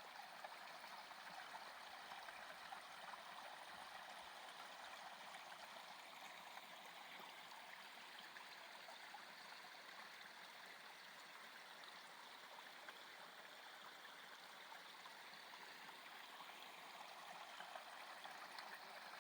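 Small mountain stream trickling and cascading over rocks, a faint, steady rush of running water fed by recent rain.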